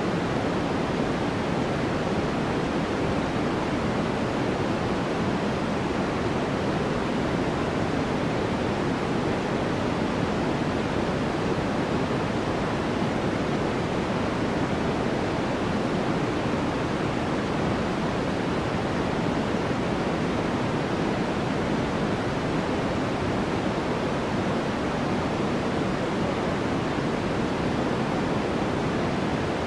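Electronically generated white noise for sleep: a steady, unchanging hiss, fuller in the lows and middle than in the highs.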